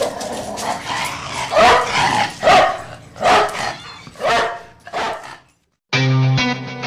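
A dog barking, a series of sharp barks about one a second, stopping about five and a half seconds in. Guitar music starts just before the end.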